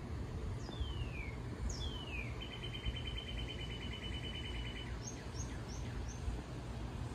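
Bird song: two quick downward whistles, then a rapid trill held for about two and a half seconds, then four short high chirps. A steady low rumble runs underneath.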